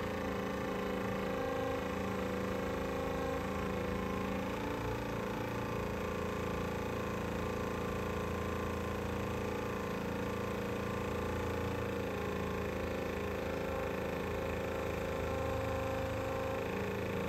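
Minn Kota 101 thruster's brushed DC electric motor running steadily on 36 volts in reverse, oil-filled, with a steady whine. It seems pretty smooth, with a few moments where it slows down a little.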